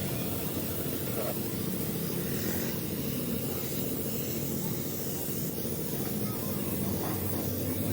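Steady hiss of compressed air over the hum of a running motor.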